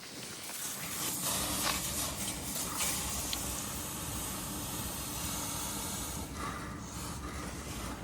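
Steady hiss of gas under pressure, with a faint low hum underneath, during refrigeration work on a rooftop condensing unit. It builds up about half a second in and eases off near the end.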